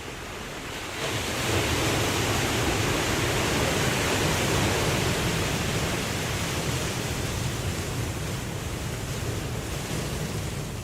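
Ocean waves: surf rises sharply about a second in, then slowly washes out over the following seconds.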